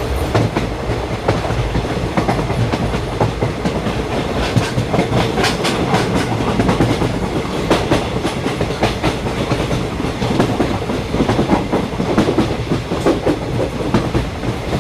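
Indian Railways express train, the Venkatadri Express, running along the track: a steady rumble with frequent sharp clicks and knocks from the wheels going over the rails.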